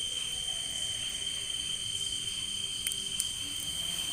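A steady, high-pitched chorus of night insects, such as crickets, trilling without a break, with two faint clicks about three seconds in.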